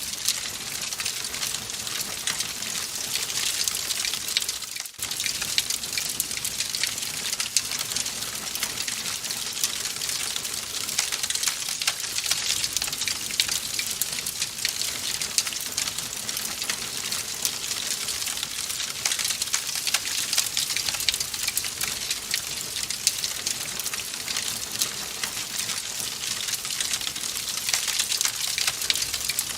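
Wood fire crackling in a fireplace: a steady, dense patter of small pops and snaps, with a brief drop in level about five seconds in.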